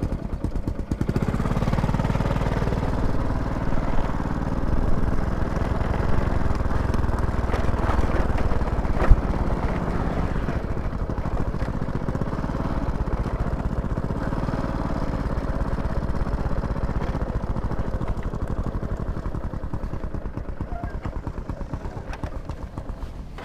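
A small engine running steadily with a fast low pulsing, fading gradually near the end; a single sharp knock about nine seconds in.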